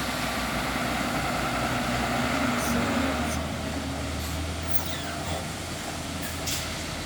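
Large diesel dump truck engine running steadily with a low, even hum.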